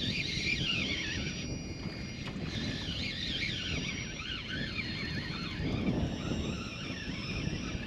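A bird singing a quick, warbling up-and-down song that fades out about five seconds in, over steady low wind noise on the microphone.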